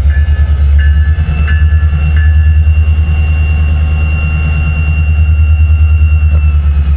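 Freight train cars rolling past close by: a loud, fluttering low rumble with thin, steady high-pitched squealing tones over it.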